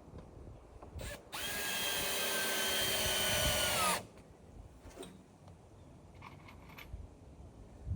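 Power drill driving a long screw into wood: a short blip about a second in, then a steady whine for about two and a half seconds whose pitch sags slightly as the screw seats, before it cuts off suddenly. A few faint clicks follow.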